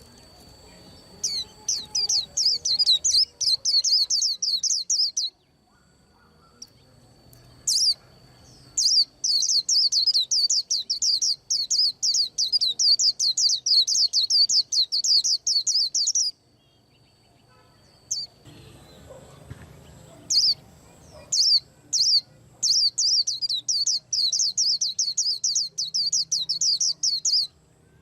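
A caged white-eye singing long runs of rapid, high chirping notes, three runs of several seconds each with short pauses between. A faint steady high-pitched whine sits under the first part.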